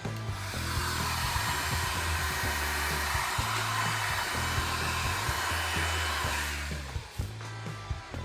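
A hot-air blower runs with a steady whooshing hiss for about six and a half seconds, then cuts off, over background music. It is the kind of blower used to heat a phone's adhesive before prying.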